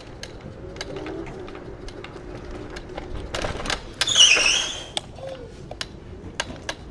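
A rental electric scooter being ridden: a faint motor whine that rises in pitch near the start, with scattered rattling clicks over the ride. A short, loud, high squeak comes about four seconds in.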